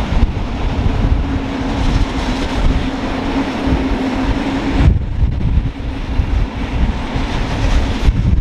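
Electric locomotive hauling a passenger train past on the main line, with a steady low hum that cuts off about five seconds in. The rumble of the coaches rolling over the track follows.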